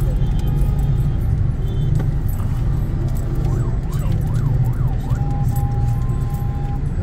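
Low steady traffic rumble heard from a car in slow, packed traffic, with a siren-style warbling horn from a nearby vehicle: its tone sweeps up and down quickly about four times a little over three seconds in, then holds one steady note for about a second and a half.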